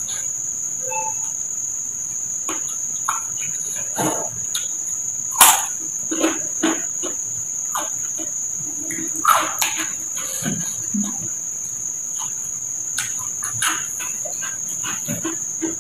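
Close mouth sounds of eating by hand: chewing and wet lip-smacking with scattered clicks, the sharpest smack about five and a half seconds in. A steady high-pitched drone runs behind it throughout.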